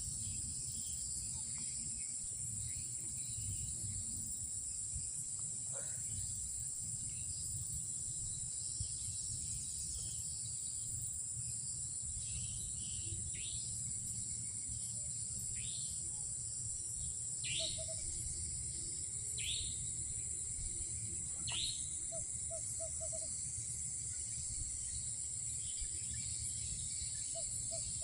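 Night insect chorus: a steady high-pitched drone of crickets or similar insects over a low rumble. In the second half about seven short calls each drop sharply in pitch, a few seconds apart, with a faint soft patter of low notes among them.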